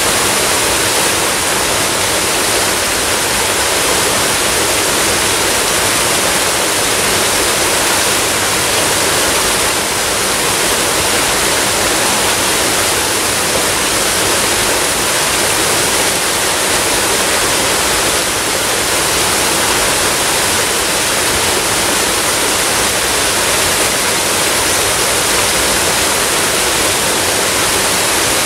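Waterfall: water falling and rushing in a loud, steady, unbroken roar.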